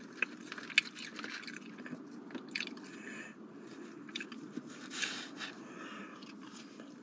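Close chewing and biting of fried chicken strips and fries, with small clicks and scrapes from fingers picking food out of a foam takeout box. A steady low hum runs underneath.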